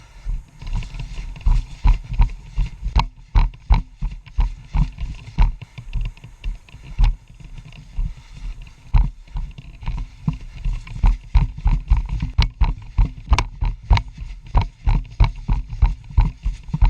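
Footsteps of an airsoft player walking or jogging, heard as a steady run of low thuds and knocks at about two to three steps a second, carried close on a body-worn camera.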